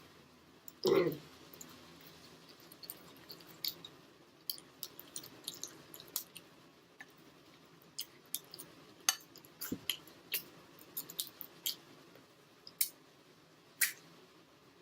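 Quiet eating at the table: scattered sharp clicks and taps of cutlery and chewing, with one heavier bump about a second in.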